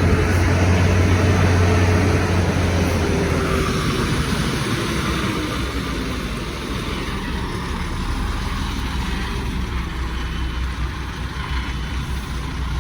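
Heavy truck engine running as the truck passes, loudest in the first three or four seconds with its pitch falling, then easing into a steady low traffic rumble.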